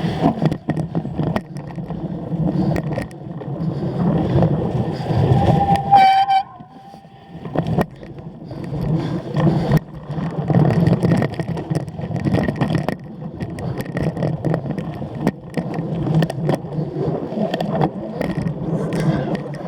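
Wind rush and rattling knocks of a cyclocross bike ridden hard over rough ground. A brief high squeal about six seconds in, then it goes quieter for a second or so before the rattling picks up again.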